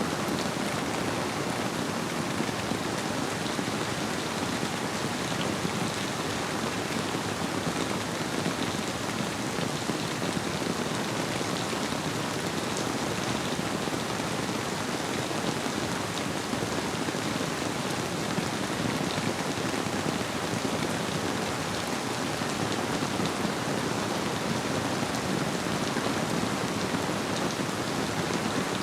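Steady rainfall blended with a gently flowing river: an even, unbroken hiss with occasional sharper raindrop ticks.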